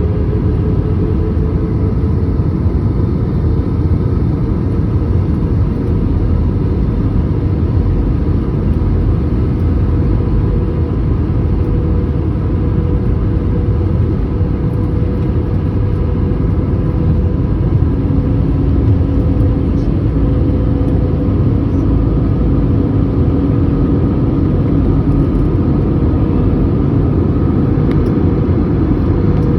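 Airliner cabin noise heard from a window seat: the steady rumble of jet engines and airflow, with a steady droning hum on top and a second, lower hum joining a little past halfway.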